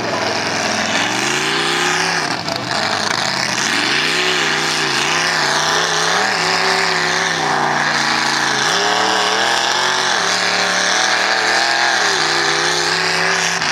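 Off-road competition truck's engine revving, its pitch rising and falling over and over as the throttle is worked.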